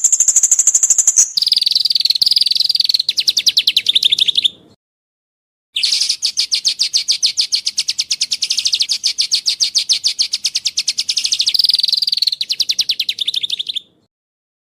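Songbird singing: a brief high whistled note, then a fast rattling trill for about three seconds; after a second of silence a second, longer trill runs about eight seconds and stops near the end.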